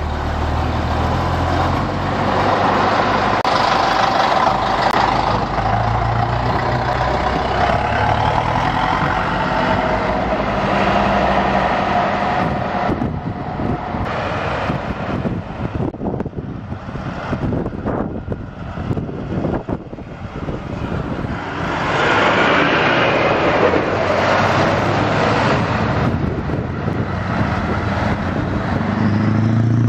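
Scania trucks driving past one after another, their diesel engines and tyres loud as each goes by. The noise dips in the middle and swells again as another truck passes near the end.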